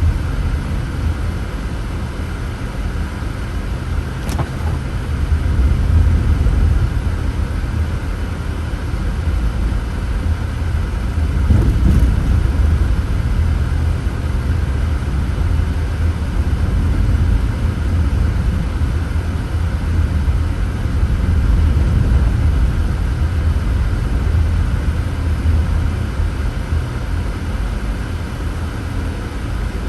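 Steady low rumble of a car driving, road and tyre noise with the engine, rising and easing gently, with a faint click about four seconds in.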